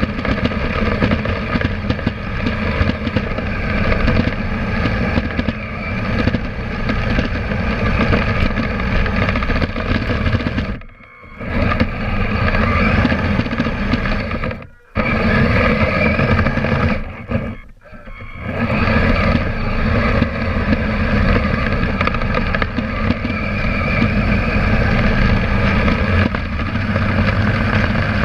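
Kyosho Blizzard RC snowcat driving, its electric motor and geared track drive running with a steady whine and rattle, heard from a camera mounted on the vehicle. The drive stops briefly three times midway, then picks up again.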